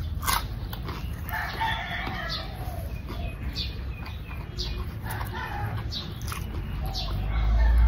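Close-up chewing of crunchy deep-fried pork, with sharp crunches scattered through. A rooster crows in the background.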